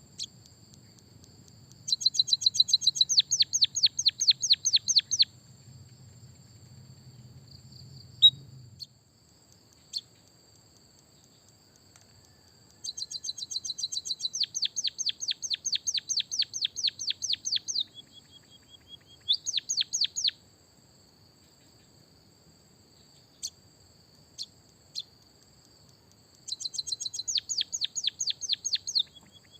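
Songbird singing long, fast rolling trills of canary-style song, three runs of rapidly repeated sweeping notes with pauses between. A faint steady high-pitched whine runs underneath.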